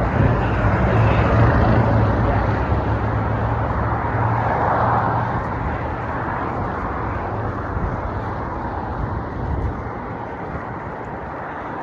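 Street traffic noise with a steady low engine hum that fades away past the middle, the overall sound easing slightly toward the end.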